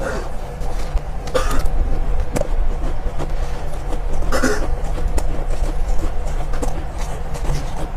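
Close-up biting and chewing of soft, powdery ice: irregular short crunches, the clearest about a second and a half and four seconds in, over a steady low rumble.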